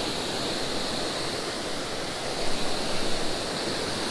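Creek waterfall pouring steadily, an even rushing noise, with a few brief louder knocks or splashes a little past halfway.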